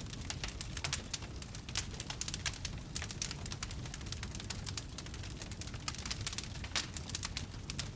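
Wood campfire crackling and popping: many irregular sharp snaps, several a second, over a steady low rumble.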